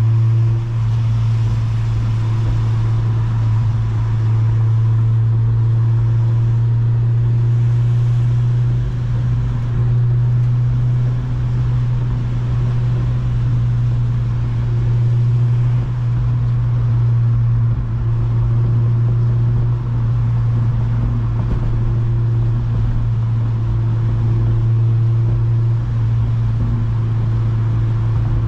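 Honda Civic Si's K-series four-cylinder engine and exhaust droning steadily at highway cruise, with no revving, over tyre hiss from a wet road.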